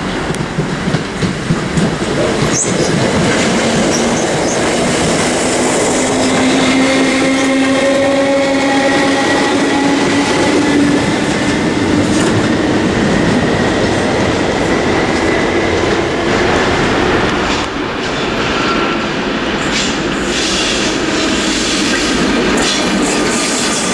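Class 321 electric multiple unit running through the station, its wheels on the rails with a faint whine that rises slightly in pitch. Near the end, a Class 90 electric locomotive hauling coaches passes with sharp clicks from the rail joints.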